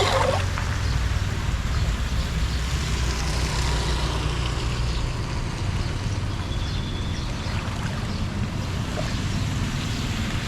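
Steady rushing of floodwater draining, with a low rumble underneath.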